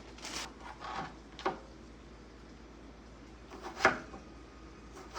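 Kitchen handling sounds: a few scattered knocks and clacks of utensils and containers being moved, the sharpest about four seconds in.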